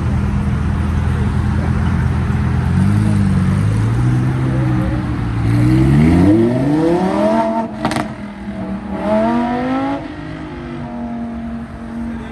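A car engine running steadily, then accelerating hard away. The pitch climbs steeply, a short sharp crack comes about eight seconds in as it shifts up, and it climbs again before easing off to a steady, lower drone.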